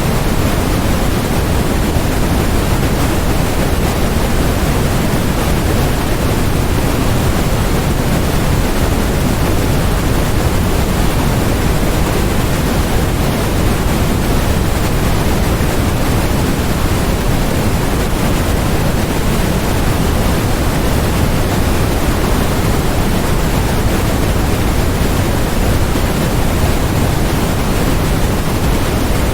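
Steady generated white noise: an even, unbroken hiss with no changes in level, fuller in the low end than in the highs.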